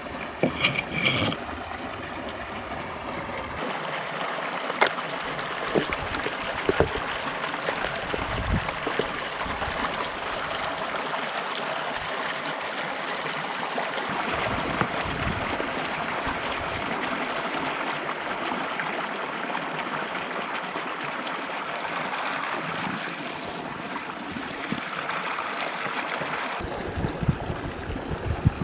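Mountain stream rushing steadily, with a few short knocks and clinks near the start, a few seconds in and near the end.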